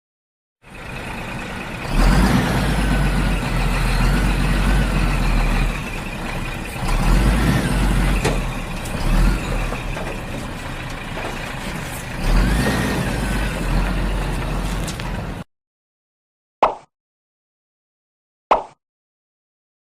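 Truck engine running with a heavy low rumble, swelling three times over about fourteen seconds, then cutting off suddenly. Two short pops follow.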